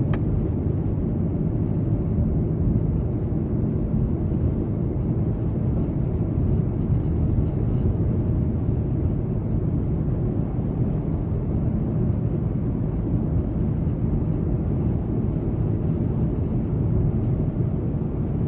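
Car driving on a snow-covered road: a steady low rumble of engine and tyres, unchanging throughout.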